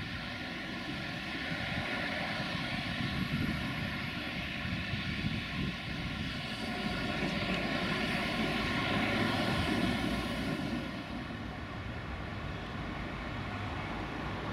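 Siemens Desiro diesel multiple unit running past, its engine drone and running noise building as it approaches, loudest about eight to ten seconds in, then easing off about eleven seconds in.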